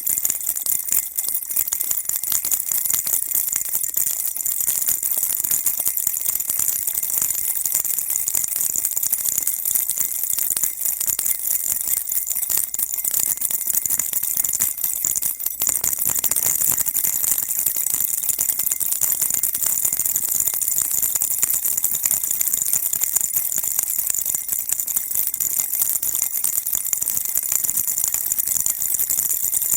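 Baby rattle shaken continuously, a dense, even, high-pitched rattling and jingling that keeps a steady level throughout.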